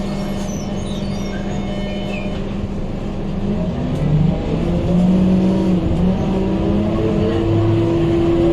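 Scania K230UB Euro IV bus running, its engine and loud radiator fan making a steady drone. About three and a half seconds in the pitch shifts, and it settles into a higher steady tone near the end.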